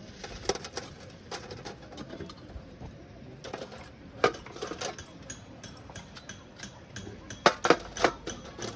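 Scattered light clicks and knocks of hard objects being handled, with a quick cluster of louder knocks near the end.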